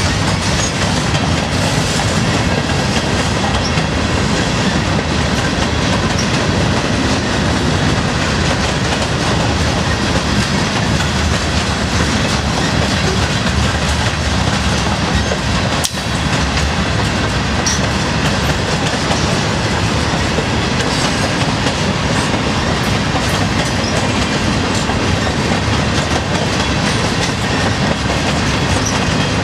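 Freight train cars (covered hoppers and boxcars) rolling past: a steady rumble of steel wheels on the rails with clickety-clack over the rail joints. There is one brief sharp click about halfway through.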